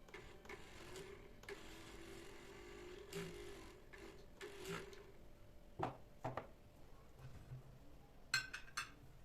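Quiet household handling noises: a faint steady hum for the first few seconds, a few light knocks, and a quick run of sharp clinks about eight seconds in.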